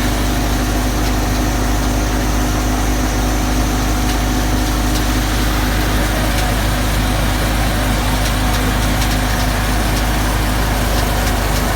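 Fiat 480 tractor's three-cylinder diesel engine running steadily while driving a thresher, the engine hum and the thresher's running mixed in one even, unchanging drone.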